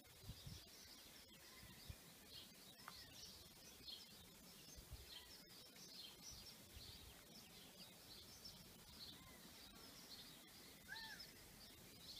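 Near silence with faint birds chirping, many small high chirps running on, and one slightly louder rising-and-falling call near the end.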